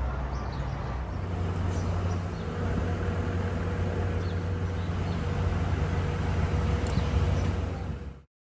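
Steady low rumble of a running vehicle, with a faint steady whine joining a couple of seconds in; it cuts off suddenly near the end.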